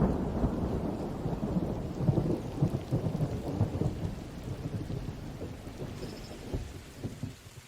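Rolling thunder with rain, a low rumble that slowly fades and then cuts off suddenly near the end.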